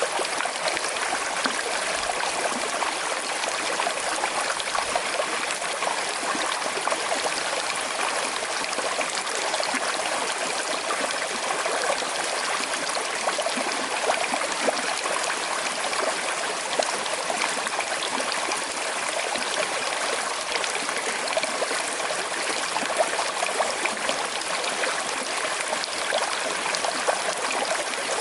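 Small river flowing gently over stones, with a steady rush of water and fine trickling and gurgling.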